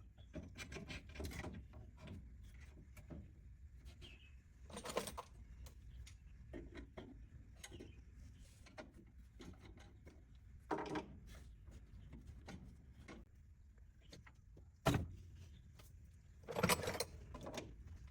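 Intermittent clinks, knocks and scrapes of tools and metal engine parts being handled, with a few louder knocks spread through it.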